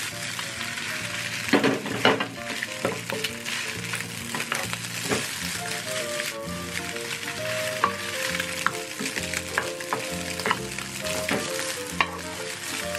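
Rice and egg sizzling in a hot oiled non-stick wok while being stir-fried with a wooden spatula. The pan is shaken and tossed, with scattered sharp scrapes and knocks of the spatula against the pan. Soft background music plays underneath.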